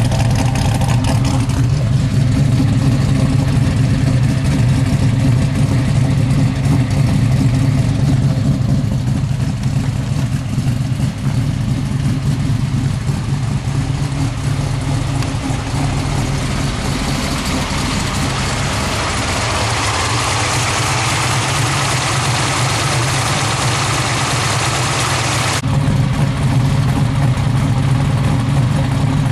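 Oldsmobile 434 cubic-inch stroker V8 running through a new 2 1/2-inch stainless Pypes exhaust. It runs with a steady low rumble, turns harsher and hissier through the middle, and drops back suddenly near the end.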